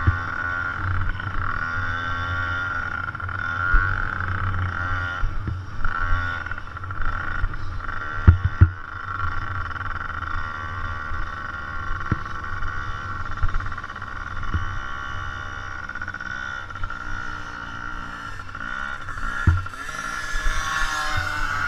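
Dirt bike engines running and revving as they race around a motocross track, the pitch rising and falling, with a few sharp knocks in the middle and near the end.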